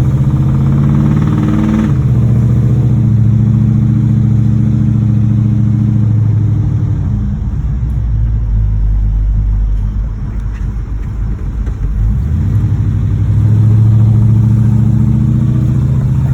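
1986 Chevrolet Monte Carlo SS's 305 V8, an engine with a knocking rod in its bottom end, running as the car is driven. The engine note steps down about two seconds in, falls off and eases for several seconds around the middle, then picks up again near the end.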